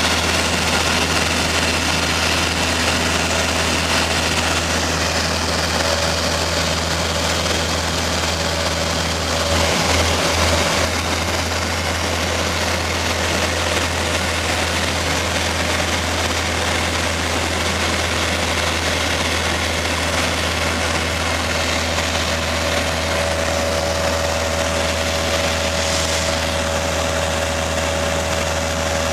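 Light aircraft's piston engine and propeller running steadily in flight, heard from inside the cabin as a constant low drone with a loud rushing hiss, swelling briefly about ten seconds in.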